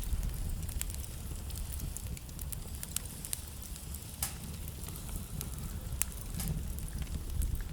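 Wood fire burning in a fireplace: a steady low rumble of the flames with irregular crackles and sharp pops from the burning logs, a few louder pops scattered through.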